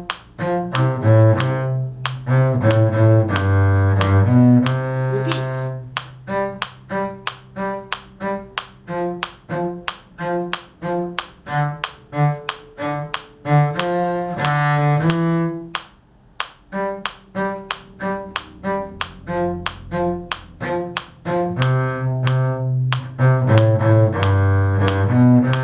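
Bowed string instruments in the cello's range playing a simple tune in short separate notes, low notes under higher ones, over a steady ticking beat. The playing dips briefly a little past halfway, then goes on.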